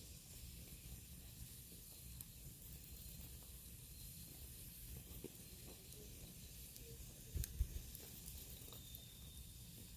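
Faint, steady hiss and sizzle of damp firewood burning in a fire pit, with scattered small crackles and a couple of louder knocks about seven and a half seconds in.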